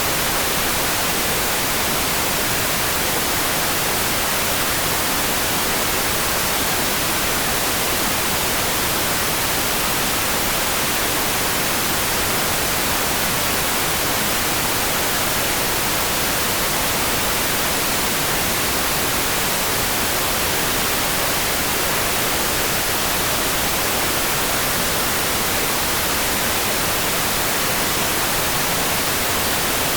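Steady, even rain hiss, a dense noise with no separate drops, splashes or changes.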